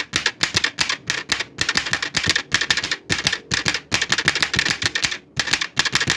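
Old typewriter being typed on: a fast, uneven run of key strikes, several a second, with a brief pause near the end.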